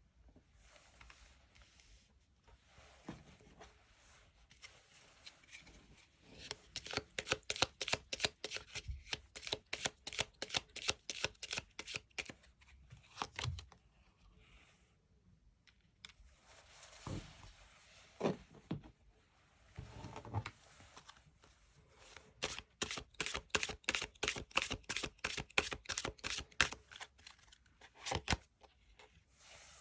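Tarot cards being shuffled by hand: two long runs of rapid card clicks, about half a minute apart, with a few single knocks of the deck or cards on the table between and after them.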